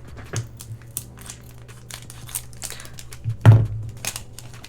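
Foil Pokémon booster pack wrapper crinkling as it is handled, a run of short sharp crackles, with one louder thump about three and a half seconds in.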